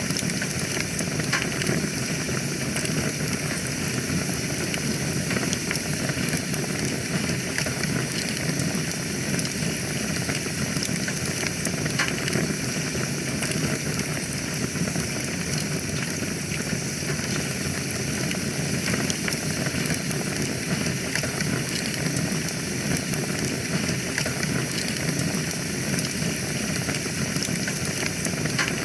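Wood fire burning in a fireplace: a steady hiss with frequent small, sharp crackles and pops at irregular intervals.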